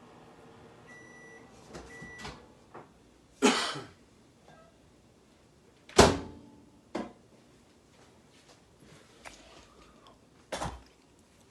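Microwave oven beeping briefly, twice, about a second in. Several loud knocks and clunks follow, the loudest about six seconds in, fitting with the microwave door being opened and the plastic egg poacher being handled.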